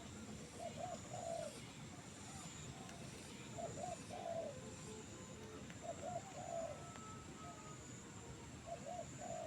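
A dove cooing in short repeated phrases, four phrases about two to three seconds apart, with a faint steady high-pitched whine behind it.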